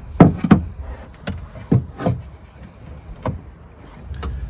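Irregular knocks and clunks, about seven of them, from inside a Land Rover Freelander 2's rear door shell as the loosened window regulator is dropped down and moved about inside it.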